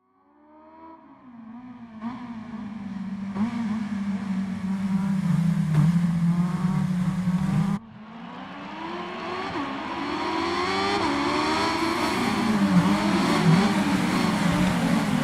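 Kawasaki Ninja H2 superbike engine running hard, its pitch climbing and dropping as it revs. The sound fades in from silence, cuts off abruptly about halfway through, then builds again with more rising revs.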